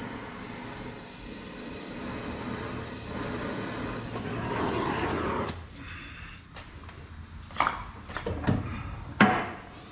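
Gas torch hissing steadily as it heats seized fasteners on studs, shut off suddenly about five and a half seconds in. A few sharp metal knocks of tools follow, the loudest near the end.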